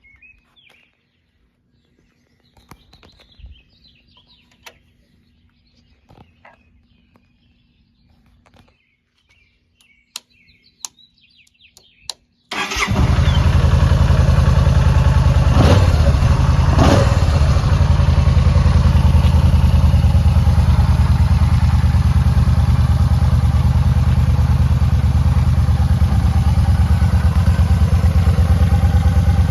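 Yamaha motorcycle engine starting about a third of the way in, then idling steadily, with two quick blips of the throttle soon after it catches. Before the start, birds chirp and there are a few sharp clicks.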